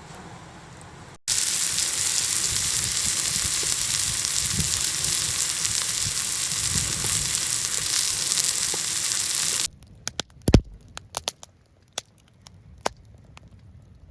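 Firewood burning: a loud steady hiss for most of the stretch, cut off suddenly, then scattered sharp crackles and pops.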